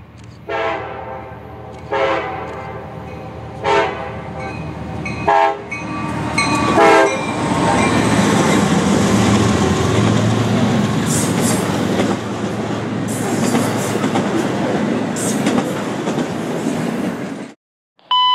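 CSX locomotive air horn sounding about five blasts over the first seven seconds, the first the longest, as the train approaches. The train then passes with a loud steady rumble and clatter of wheels on rail, which cuts off abruptly near the end.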